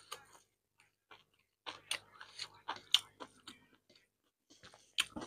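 Close-miked chewing of a mouthful of rice and beef curry: irregular wet smacks and clicks of the mouth, busiest in the middle and again near the end.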